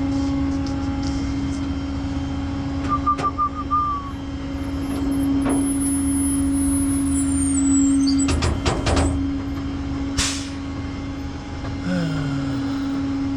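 A vehicle engine running with a steady hum. A few short knocks come near the middle, and a short sharp hiss of air about ten seconds in.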